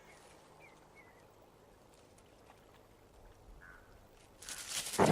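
Quiet grassland with a few faint short chirps in the first second. Near the end comes a loud rustling, crackling crash through grass as a coyote pounces on a rodent.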